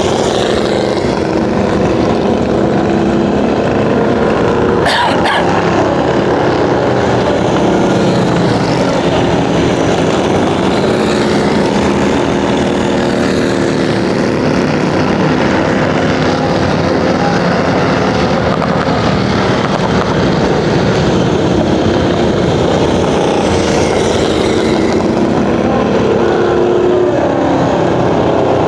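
Motorcycle engines running hard and continuously, several pitches wavering and sliding as they rev, with pitches crossing near the end.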